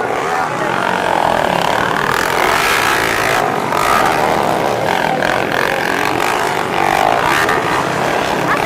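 Underbone motorcycle engines running hard on a race track, revving with a rising and falling pitch.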